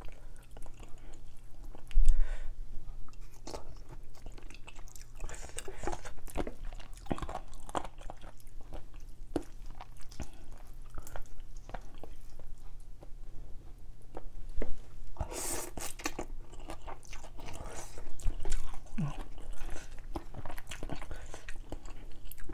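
Close-up eating sounds: a person chewing and biting on noodles and braised chicken, with many small wet mouth clicks. There is a single loud low thump about two seconds in and a louder rush of noise about two-thirds of the way through.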